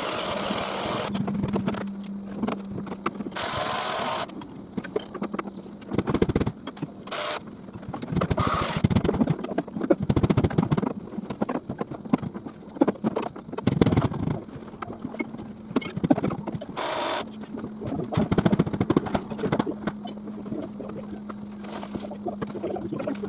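A machine engine running steadily under repeated knocks, clanks and scraping of demolition work.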